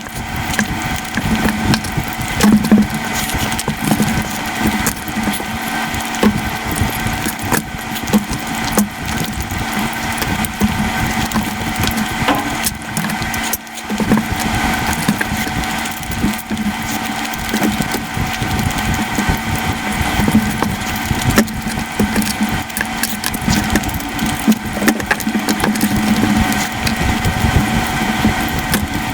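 Close-miked eating sounds played at five times normal speed: chewing and mouth clicks run together into a dense, steady stream of rapid clicks.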